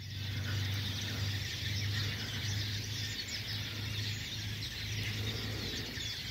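Faint bird calls over a steady low rumble.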